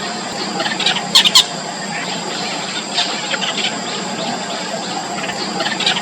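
Bittern nestlings squealing in the nest, begging to be fed: many short, thin squeaks, with two loud sharp squeals about a second in. A steady high-pitched drone runs beneath.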